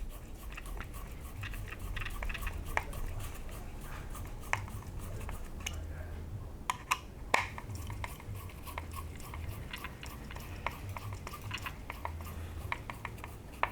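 Hand screwdriver driving small countersunk screws into a 3D-printed plastic RC car chassis: a run of small irregular clicks and creaks, with a few sharper clicks, over a low steady hum.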